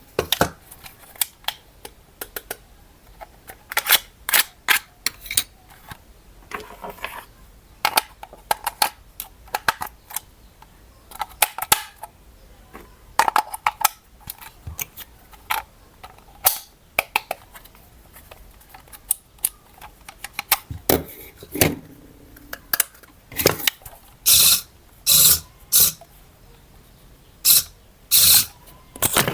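Hard plastic toy parts and packaging being handled, giving irregular sharp clicks, snaps and knocks, with a quick run of louder snaps over the last few seconds.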